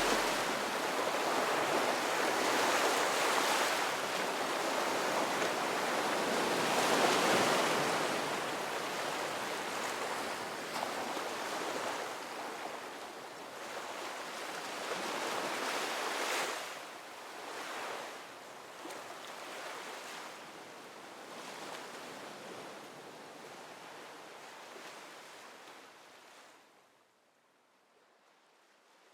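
Steady rushing of water and wind, gradually fading out until it is almost gone near the end.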